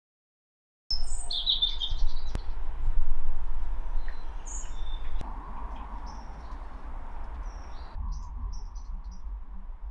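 Wild birds chirping with short, high calls, starting about a second in, over a low steady rumble.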